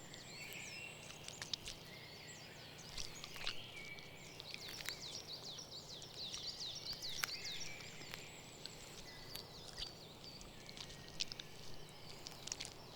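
Eurasian sparrowhawk nestlings calling at the nest: many rapid, high-pitched chirps sliding downward, with a few faint sharp clicks.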